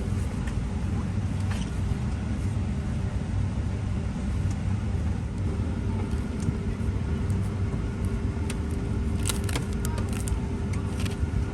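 Steady low rumble and hum of a Boeing 777-300ER's cabin air system while the airliner is parked before departure, with a few sharp clicks about nine seconds in.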